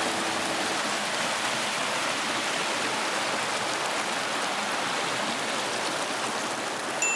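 Steady rushing of water flowing down a sloping rock waterfall, with a short click near the end.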